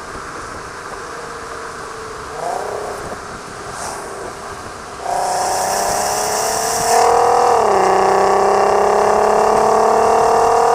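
The Audi TT's swapped-in 3.6-litre VR6 engine, heard through a Varex valved exhaust, pulling under acceleration. About halfway through the exhaust note suddenly gets much louder. A couple of seconds later the pitch drops briefly, as at a gear change, then climbs steadily again.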